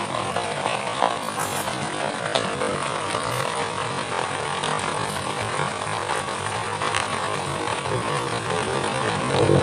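Heavy rain falling steadily, a dense even hiss with a few sharper drop taps.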